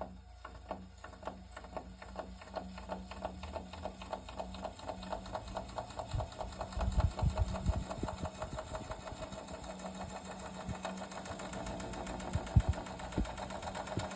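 Panasonic F-YV32LX inverter dehumidifier running with an abnormal rattling noise. Ticks start slow and speed up into a rapid clatter, with heavy thumps around the middle and near the end. The owner takes it for a defect in this replacement unit, which is much louder than the high-pitched whine of the first unit.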